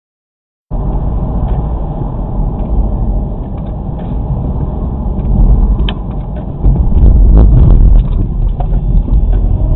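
Loud vehicle rumble and road noise, heaviest in the low end, with scattered knocks; it starts abruptly about a second in, grows louder for the last three seconds and cuts off suddenly.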